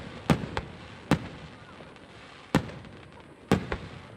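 Aerial firework shells bursting: five sharp bangs at uneven intervals over about three seconds, each trailing off briefly, the first and last the loudest.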